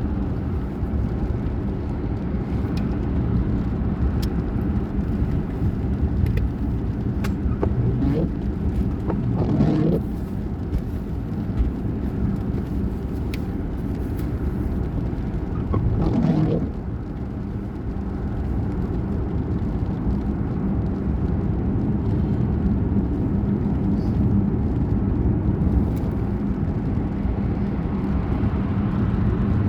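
A vehicle running steadily with a low hum. Two brief rising sounds come about ten seconds and about sixteen seconds in.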